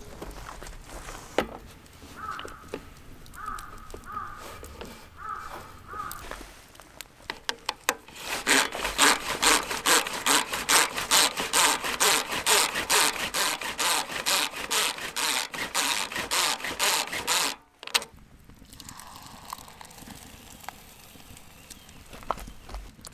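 Steady back-and-forth sawing, about two strokes a second, starting about a third of the way in and stopping abruptly after about ten seconds.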